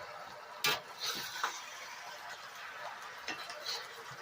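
Metal cooking utensil knocking and scraping against a wok as food is stir-fried and turned: one sharp knock a little under a second in, then a few lighter clinks, over a faint steady sizzle.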